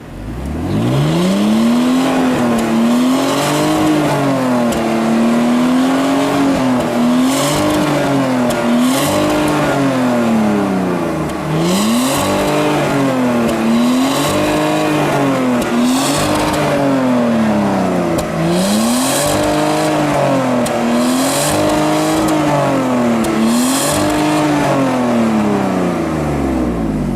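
BMW car exhaust as the engine is revved over and over, the pitch climbing and dropping back about every one and a half to two seconds. It rises from nothing in the first second, and most rev peaks carry a brief hissy rasp on top.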